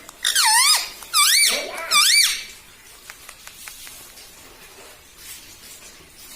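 Pet parrot giving three loud, squeaky calls in quick succession, each swooping down then up in pitch, then falling quiet apart from a few faint ticks.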